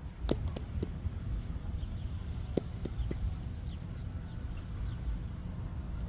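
Wind rumbling on the microphone, with two quick runs of three light clicks. At the very end comes a single loud sharp crack of a plastic Wiffle bat hitting the ball.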